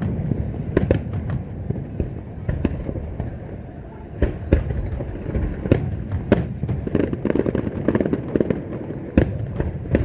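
Fireworks display: aerial shells bursting in an irregular run of sharp bangs, about two a second and of varying loudness, over a steady rumble.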